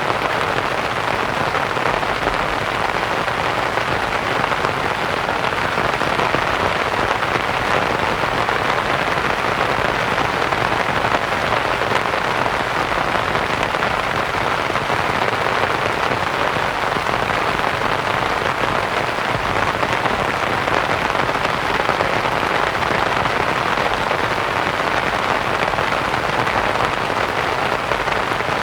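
Steady rain pattering on a canvas tent, blended with a constant hiss of white noise.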